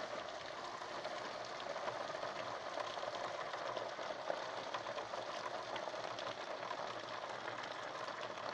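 Heavy downpour: a steady hiss of rain with a dense patter of drops.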